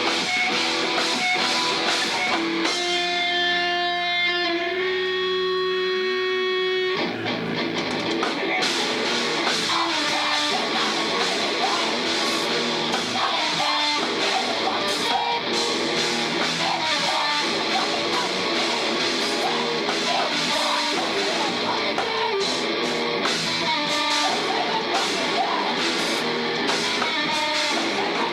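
Loud live rock band with distorted electric guitar, bass and drums. About three seconds in the band drops to a few held, ringing notes with a sliding low note, then crashes back in at full volume with cymbals.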